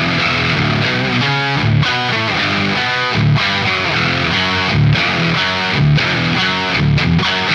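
Electric guitar played with a distorted crunch/heavy amp tone: chugging low riffs and chords mixed with faster single-note runs. The guitar is a Vola Vasti V3 MC with mini humbucker and VTS pickups, run through a Neural DSP Quad Cortex modeller.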